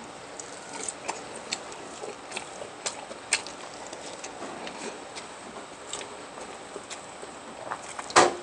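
Close-up eating sounds: scattered small wet clicks and smacks of chewing, with a louder sharp click or crunch near the end.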